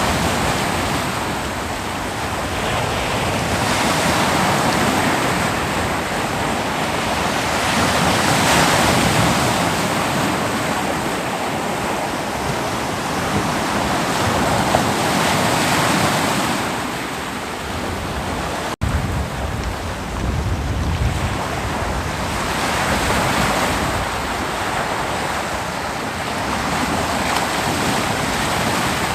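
Ocean surf breaking on a beach: a continuous wash of waves that swells and recedes every few seconds, with some wind on the microphone.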